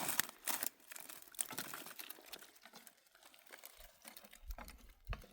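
Dry crackling and rustling, like brushwood being handled, with many quick snaps that are thickest in the first two seconds and then thin out. A low rumble comes in near the end.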